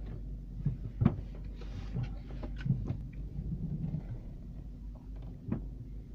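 Opel Zafira's engine idling, a steady low hum heard inside the cabin, with three knocks and a brief rustle from the camera being handled.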